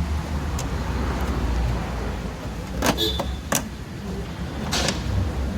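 Workshop handling of motorcycle parts: three short sharp knocks and clinks, the first two close together about three seconds in and one more near the end, over a steady low hum.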